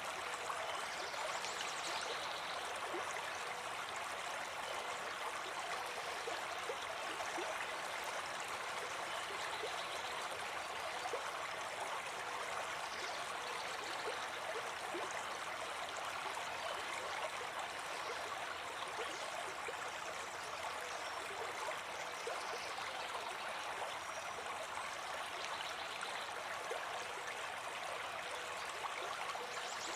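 A river or stream flowing steadily, the water babbling and splashing evenly without letting up.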